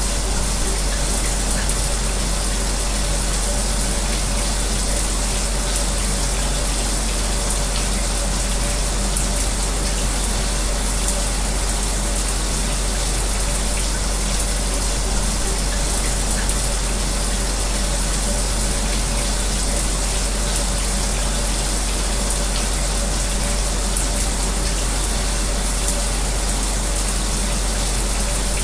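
Shower spray running steadily, mixed with an electric fan's steady hum and a low rumble beneath it.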